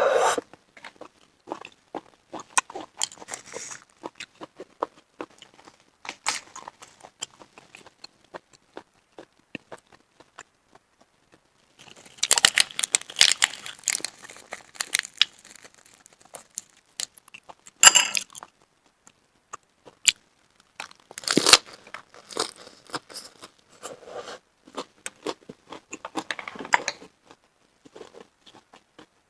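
Close-miked eating: chewing with irregular wet clicks and crunches, louder crunching bursts about 12 seconds in, at 18 seconds, around 21 seconds and near 26 seconds.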